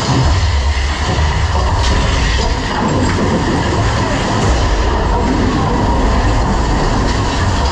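Mine-train roller coaster cars running along the track, a loud continuous rumble and rattle.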